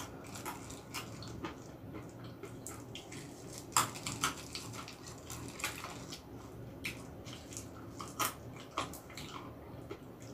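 Close-miked eating, chewing walnuts and almonds: irregular sharp wet mouth clicks and crunches, with a couple of louder ones about four and eight seconds in.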